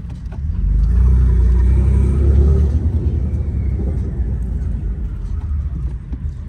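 Car engine running with a loud, low rumble that swells about half a second in.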